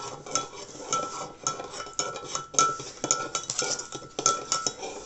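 A metal spoon stirring stock in a jug, clinking against the side about three times a second, each tap with a short ringing note: stirring until the stock is dissolved.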